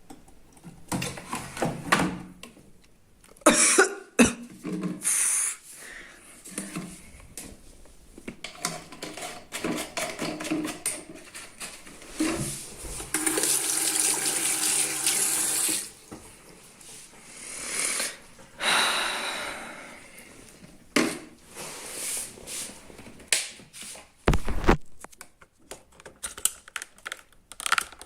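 Washing machine in its wash cycle: water and laundry sloshing and clunking at irregular intervals, with about three seconds of steady rushing water near the middle and a deep thump late on.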